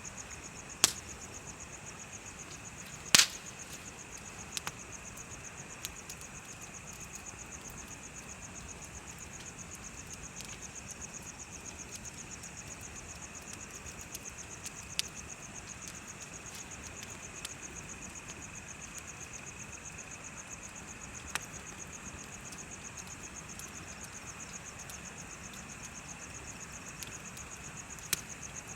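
Insects trilling steadily in a high, fast, continuous pulse, with a second lower chirring under it, while a wood bonfire crackles with scattered sharp pops, the loudest about three seconds in.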